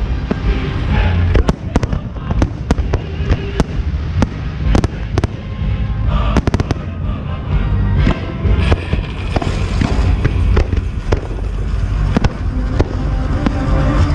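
Fireworks display: a rapid, irregular string of sharp bangs from launches and shell bursts over a continuous low rumble, with music playing along.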